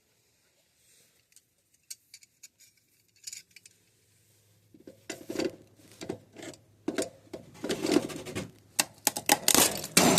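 An old circuit breaker in a Trane air handler being worked loose and pulled from its mount by hand: a few faint clicks at first, then from about five seconds in a run of loud clacking and rattling of plastic and metal.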